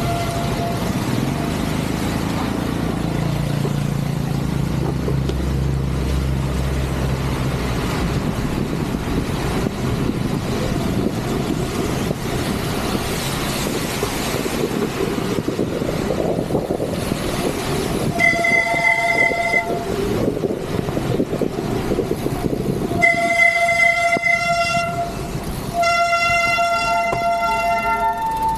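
Wet bicycle brakes squealing in long, high, ringing squeals, about two-thirds of the way in and twice more near the end, over steady rain and wind noise. The squeal is the sign of brakes wet from riding in heavy rain.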